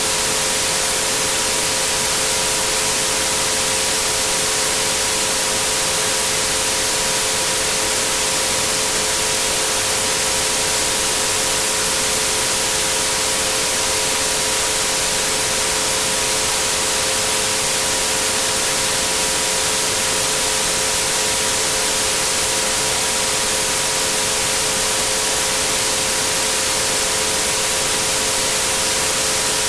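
Steady white noise hiss with three pure tones held constant beneath it at 432, 528 and 963 Hz. The hiss is brightest in the high end, and nothing changes throughout.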